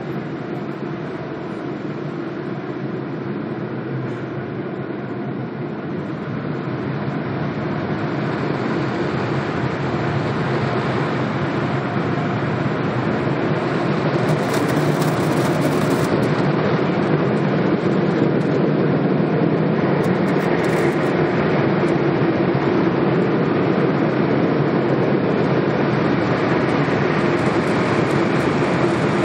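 Automatic car wash machinery running: a steady rushing noise that grows louder over the first half, then holds.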